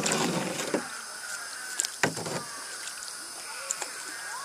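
A hand paddle being stroked through floodwater: a sharp knock of the paddle against the boat, then a splash and rush of water, twice about two seconds apart.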